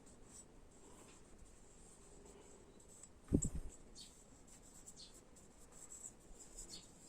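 Quiet hands-on handling of disassembled engine parts: faint rubbing and a few light clicks, with one dull low thump a little over three seconds in.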